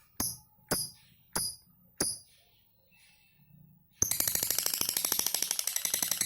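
Lovebird calling: four short, sharp, high chirps about half a second apart, then, about four seconds in, a long fast rattling trill, the 'ngekek' chatter, that stops near the end.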